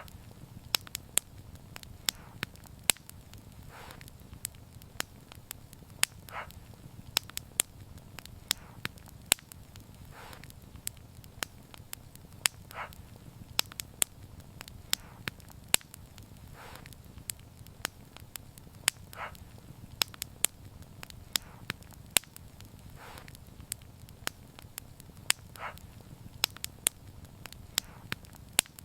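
Wood fire crackling: sharp irregular pops and snaps over a steady low rumble of burning, with a soft brief hiss every few seconds.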